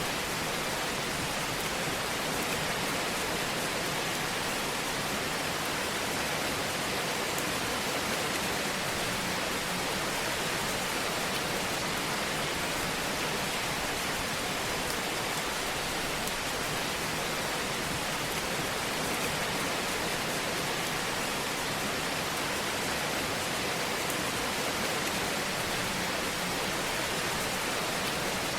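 Wood fire burning in a fireplace: a steady hiss with occasional faint crackles.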